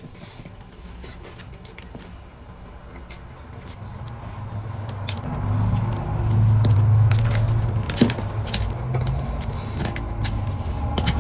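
A person chewing a cookie close to the microphone, with scattered wet mouth clicks and a low rumble that swells about halfway through.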